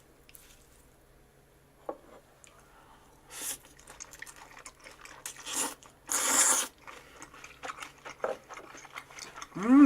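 A person eating udon noodles: short slurps from about three and a half seconds in, one long loud slurp around six seconds, then wet chewing with small clicks. A brief rising 'mm' of voice right at the end.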